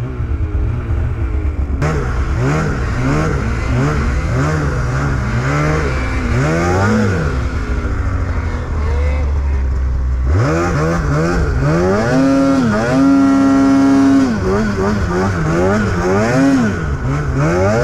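Snowmobile engine revving up and down over and over as the sled is ridden. It drops to a steady low drone for a couple of seconds near the middle, then climbs sharply and holds high revs for a second or two.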